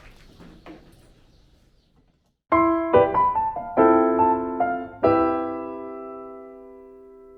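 A short piano jingle: a quick run of struck keyboard chords, ending about halfway through on a final chord that is left to ring and slowly fade.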